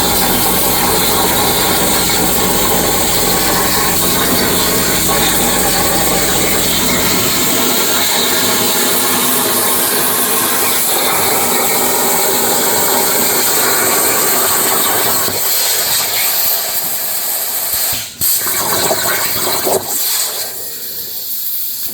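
Plasma cutter on a CNC plasma table cutting steel: a loud, steady hiss of the arc and air, with a low hum underneath that stops about seven seconds in. Near the end the hiss thins and breaks off briefly a couple of times.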